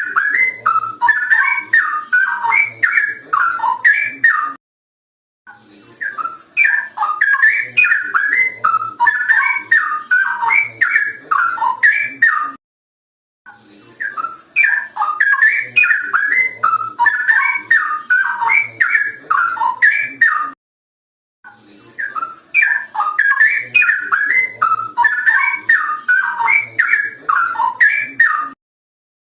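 Straw-headed bulbul (cucak rowo) singing loud, rich whistled phrases of quick rising and falling notes. The song comes in runs of about seven seconds, each broken off by about a second of dead silence, four times.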